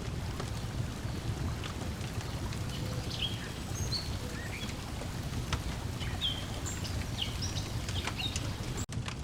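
Lakeside soundscape: a steady wash of waves lapping, with crackling pops from a wood fire and small birds chirping now and then. The sound drops out for an instant near the end.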